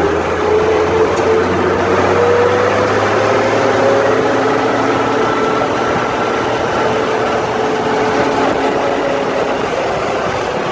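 Six-cylinder Leyland 411 diesel engine of a Romanian tractor running steadily under way, with a steady whining tone over the engine noise.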